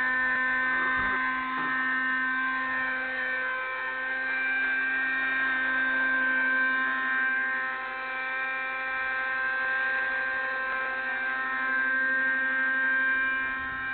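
Small two-stroke nitro (glow-fuel) engine of a Raptor 30 radio-controlled helicopter running at a steady speed, a high whine with a steady pitch that wavers only slightly.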